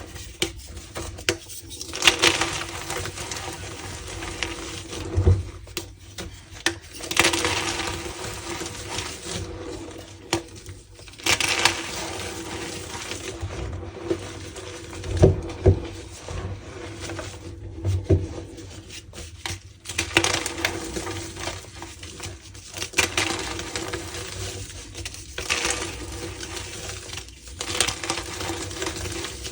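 Reformed gym chalk blocks being crushed and crumbled by hand: super crunchy, a run of crisp crunches every second or two, with sharp snapping clicks in between.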